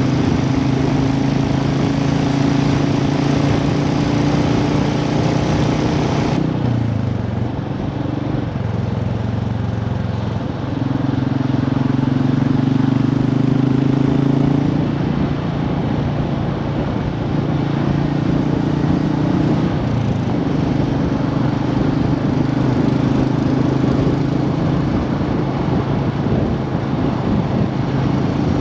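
Royal Enfield motorcycle engine running under way, with wind noise over it. The engine note drops about six seconds in, then climbs and shifts several more times as the bike changes speed.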